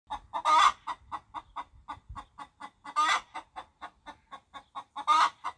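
Chicken clucking: a quick run of short clucks, about four a second, broken by three louder, longer squawks spaced a couple of seconds apart.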